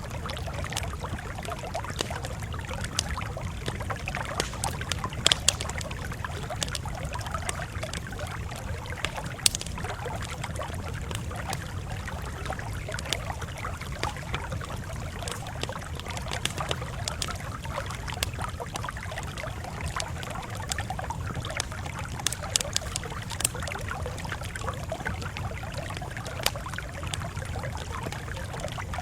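Crackling campfire: irregular sharp pops and snaps over a steady low rumble of burning.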